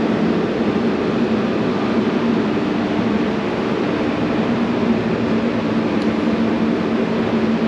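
Steady mechanical drone of workshop machinery, a fan-like noise with a constant low hum under it.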